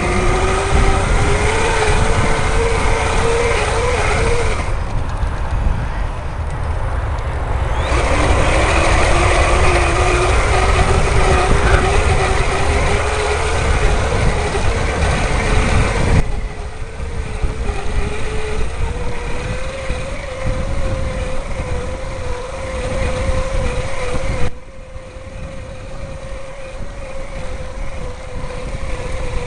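Electric bike motor whining under throttle, its pitch climbing slowly as the bike gathers speed, with heavy wind rumble on the microphone. The whine cuts out about five seconds in and comes back lower a few seconds later, climbing again, then carries on more quietly in the second half.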